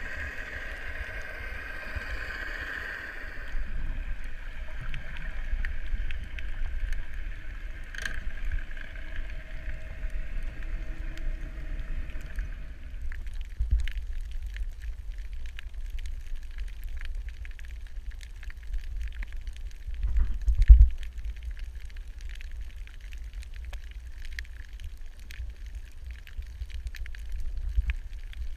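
Underwater sound: a steady low rumble with the hum of a boat engine that stops about halfway, after which a dense crackle of tiny clicks takes over, the typical background noise of a coral reef. One louder thump comes a little after two-thirds of the way through.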